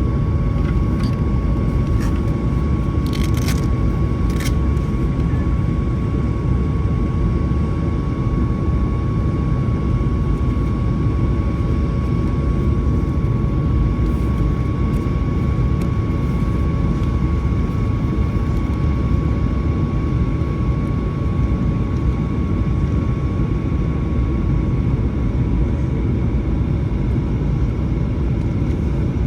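Steady cabin noise of a Boeing 737-900 in flight: a constant low rumble of airflow and CFM56 engines, with a thin steady whine over it. A few faint clicks sound in the first few seconds.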